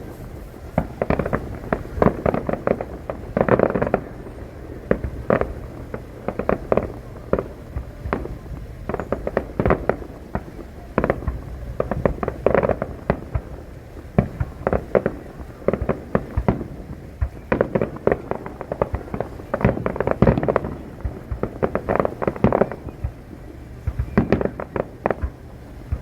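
Fireworks going off in rapid, irregular succession: many sharp bangs one after another, with louder clusters of bursts every several seconds.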